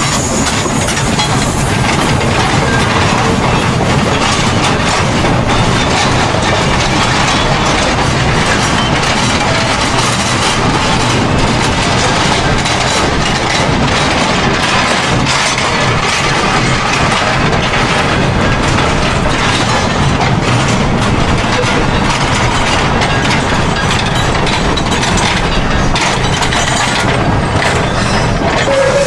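Steam train running, a loud steady rumble with continuous rapid clicking and clatter from the wheels on the rails.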